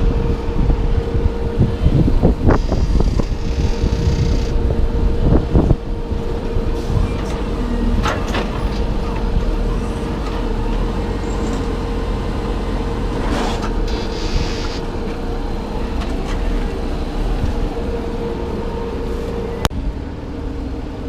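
A vehicle engine running steadily with a constant hum. There are a few clanks in the first six seconds and two short hissing bursts, one about three seconds in and one about thirteen seconds in.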